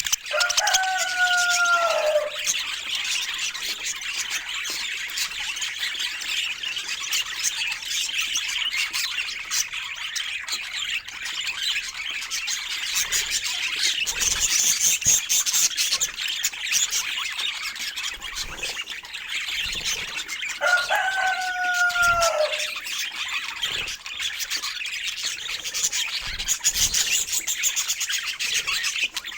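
Pet budgerigars chirping and warbling continuously in a rapid, busy chatter. Twice, a longer and lower call of about two seconds sounds over it and falls in pitch at its end.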